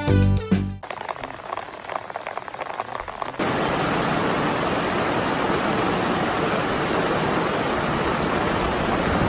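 Rushing water of a mountain stream: a steady, even rush that comes in suddenly and much louder a few seconds in, after a quieter stretch of water noise.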